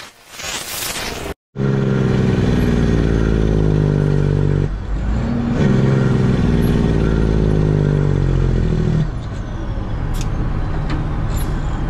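A truck's diesel engine running under way, its engine note rising and falling, with a break about five seconds in and a slight drop about nine seconds in.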